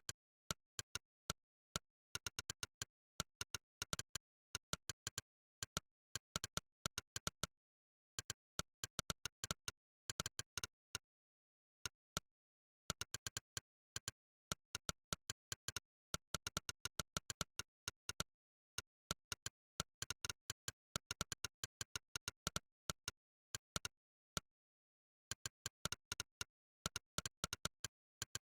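Monkeytype's synthesized "click" keypress sound, one short click per keystroke, in quick irregular runs of fast typing with brief pauses between bursts and dead silence between the clicks.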